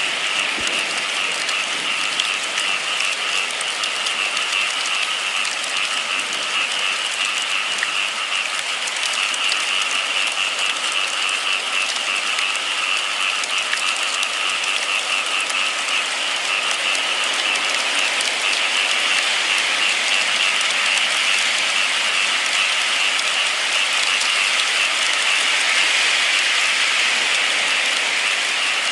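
Steady rain falling, a dense continuous hiss at an even level, with a constant high-pitched whirring band running through it.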